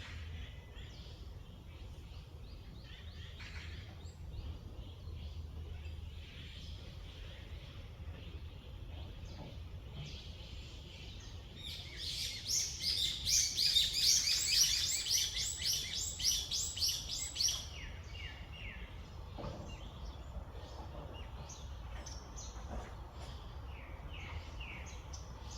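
Wild birds chirping and singing, with one bird close by giving a loud run of rapid, repeated high notes for about six seconds mid-way, over a low background hum.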